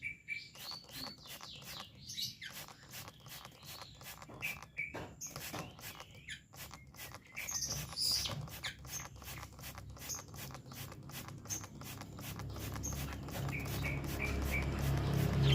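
Juvenile Oriental magpie-robin giving short chirps over a dense run of quick clicks and patters, while it bathes in a bath cage. A low hum grows louder near the end.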